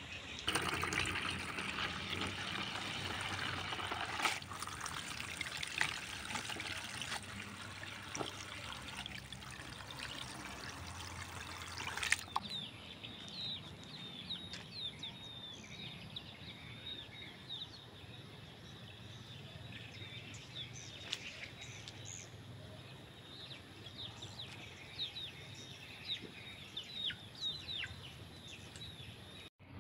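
Outdoor ambience. For about the first twelve seconds there is a steady hiss with scattered crackles; it changes suddenly, and from then on many short, high, falling chirps come every second or so from birds in the yard.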